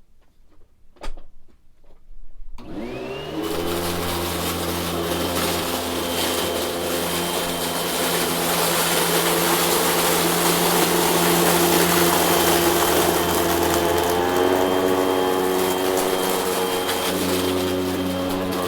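A couple of clicks, then a vacuum cleaner switched on about two and a half seconds in, its motor spinning up with a rising whine and then running steadily. The motor's pitch shifts a little now and then.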